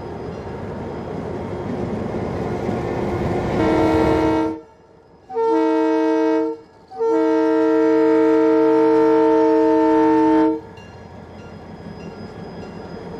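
Diesel freight locomotive approaching with its rumble growing louder, then sounding its multi-chime air horn three times, the last blast the longest at about three and a half seconds; the train's rumble carries on more quietly after the horn stops.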